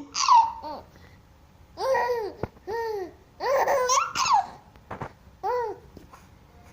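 A baby laughing and squealing in short high-pitched bursts, about five in all, with pauses between them and a couple of small clicks.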